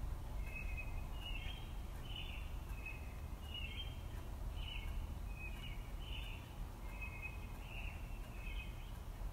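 A small bird chirping over and over, short calls about twice a second, over a steady low background rumble.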